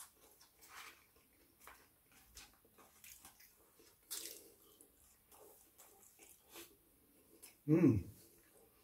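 Close-up eating sounds: chewing and wet mouth noises with scattered soft clicks. Near the end comes one short, louder 'mm' hum that falls steeply in pitch.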